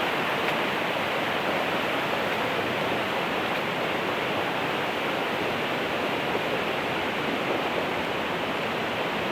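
Steady rushing of a river in full flood, running fast and high over its banks.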